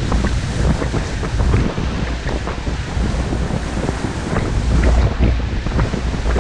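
Lake waves breaking and washing against the shore, with strong wind buffeting the microphone in a steady low rumble.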